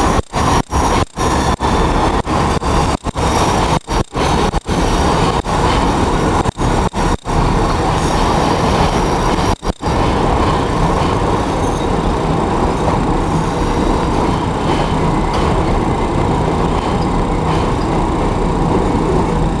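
Passenger train rolling by, a loud steady rumble of wheels and rail cars. The sound drops out abruptly again and again during the first half, then runs on unbroken.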